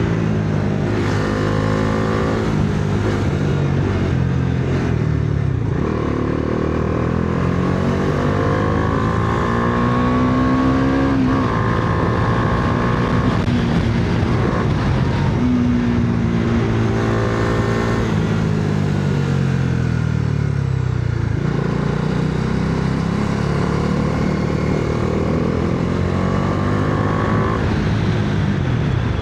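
Bajaj Dominar 400's single-cylinder engine under hard riding, its pitch repeatedly climbing with acceleration and then dropping away as the rider shifts or rolls off for curves.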